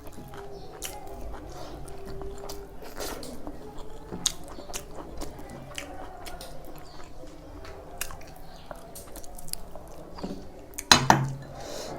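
Close-miked chewing and biting of food, with frequent small wet mouth clicks. A louder sharp sound comes about eleven seconds in.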